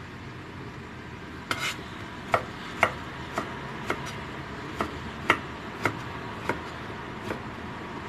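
Knife chopping on a cutting board: about a dozen separate sharp strokes at an uneven pace, roughly two a second, over a steady background hiss.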